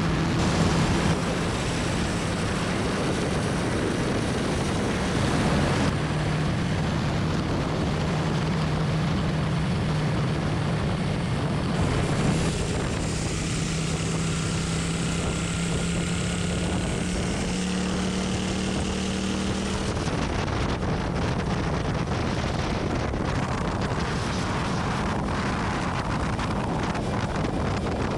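Royal Enfield Continental GT650's 648 cc parallel-twin engine at highway cruising speed, a steady drone whose pitch climbs a little partway through, under wind rushing over the microphone.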